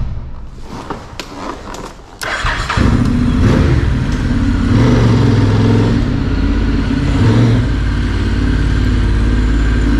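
Motorcycle engine being started after standing for almost two months: about two seconds of cranking, catching about three seconds in, revved up and down a few times, then settling to a steady idle.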